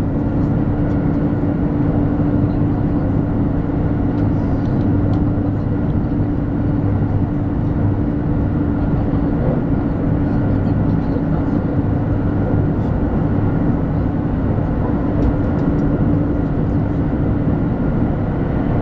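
Steady in-cabin running noise of a 200 series Shinkansen travelling at speed: a continuous rumble with a constant low hum.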